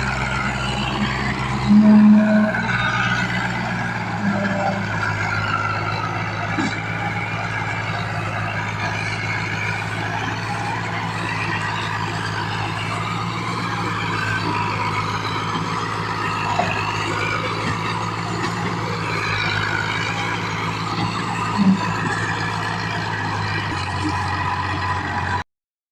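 Diesel tractor engine running steadily, with voices in the background; the sound cuts off abruptly near the end.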